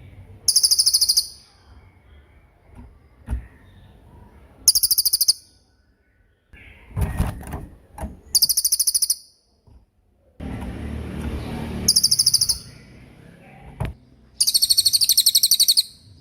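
A small songbird repeats short, very high, rapid trills, five bursts each under a second long. Low rumbling noise comes in between some of the bursts.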